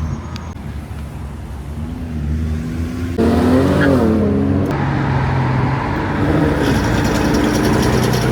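Car engine running on the highway; about three seconds in it suddenly gets louder and its pitch rises and falls as it revs.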